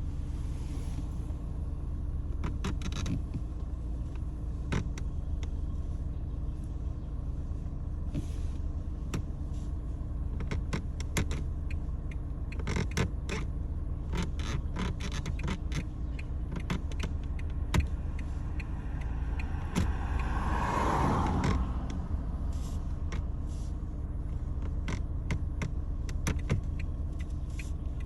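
Lada Vesta NG interior on the move: a steady low road-and-engine rumble with frequent short creaks and clicks from the body and trim. About twenty seconds in, a louder noise swells and fades.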